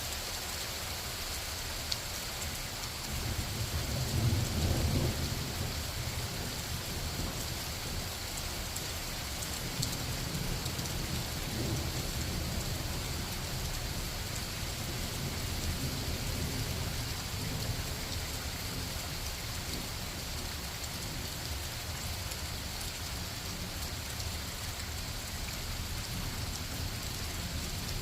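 Steady rain falling, with low rumbles of distant thunder, the strongest about four seconds in and more rolling on from about ten seconds in.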